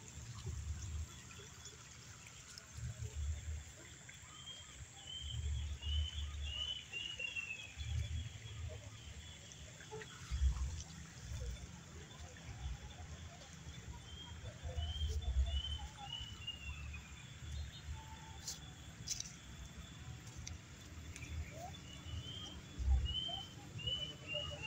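A songbird singing a short phrase of about six or seven quick falling chirps, repeated three times, over an intermittent low rumble.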